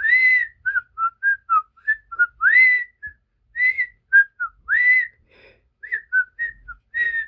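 Whistling: a run of about twenty short, clear whistled notes, several sliding up and holding briefly, with short gaps between them.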